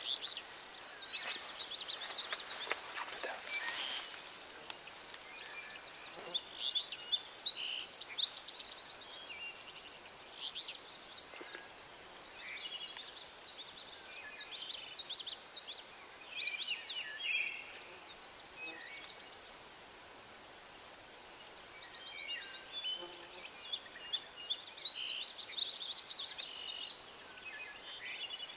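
Songbirds singing and calling in the woods, in short high phrases repeated again and again, with a brief lull in the middle.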